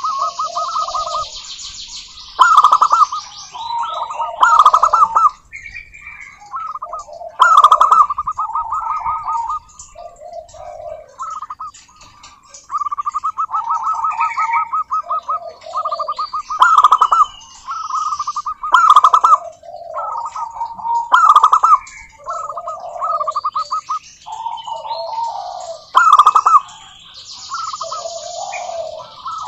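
Zebra doves cooing: rapid staccato rolling coos repeated over and over, with lower notes between them and several louder phrases. Higher-pitched chirping joins near the start and again near the end.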